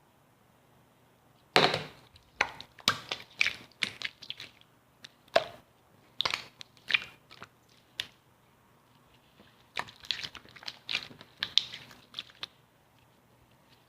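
Crisp cracking and crunching in quick clusters, starting about a second and a half in, pausing briefly past the middle, and stopping shortly before the end.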